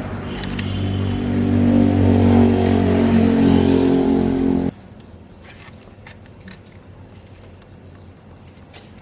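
Engine running loudly and revving up slightly, then cut off suddenly about halfway through. Scattered light clicks and knocks follow.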